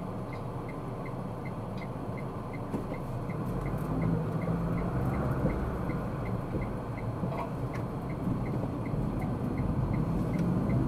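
Car driving: engine and road noise heard from inside the cabin, a steady low rumble that grows louder from about three seconds in. A faint even ticking runs through it, about three times a second.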